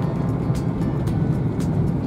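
Steady low rumble of an E4 series Shinkansen running at speed, heard from inside the passenger cabin, with background music over it.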